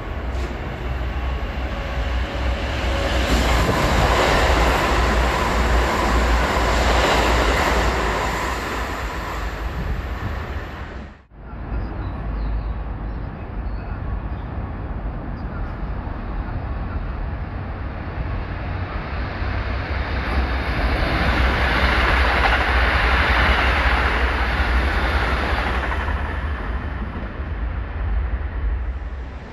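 Keikyu limited express train running through the station at speed, the rush of wheels on rail swelling and fading. After a sudden cut about eleven seconds in, a second train passes the same way and fades out near the end.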